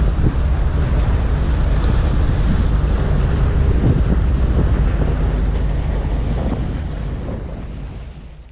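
Wind buffeting the microphone during a motorcycle ride, a steady low rumble under the rush. It fades out near the end.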